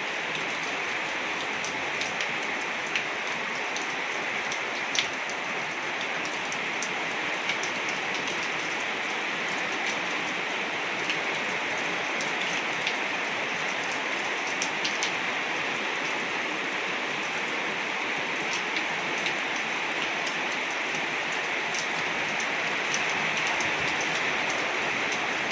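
Heavy rain falling on a rooftop: a steady hiss of rain with scattered drop impacts.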